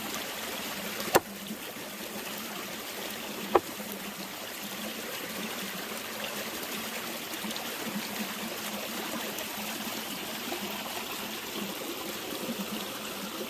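A stream running steadily. Two sharp clicks come through it, about one and three and a half seconds in.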